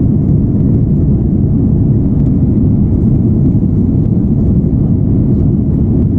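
Airliner taking off: a steady low rumble of engines and airflow.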